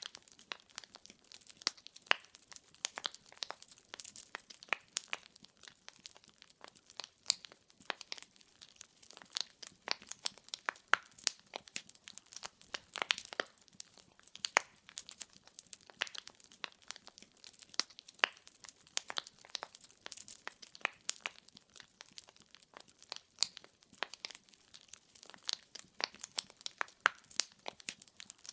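Wood fire in a fireplace crackling, with irregular sharp pops and snaps from the burning logs over a soft hiss.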